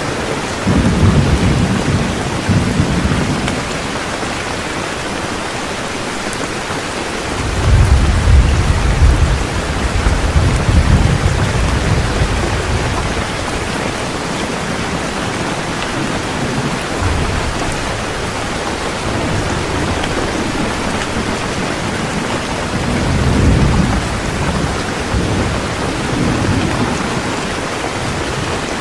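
Heavy rain falling steadily, with rolls of thunder rumbling three times: briefly near the start, longest and loudest from about a third of the way in, and again near the end.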